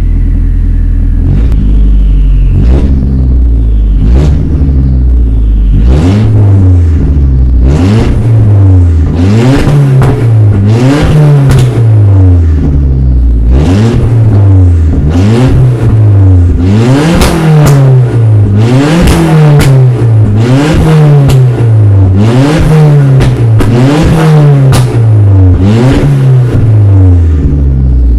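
Car engine revved up and down over and over, roughly once every second and a half, after running low and steady for the first few seconds.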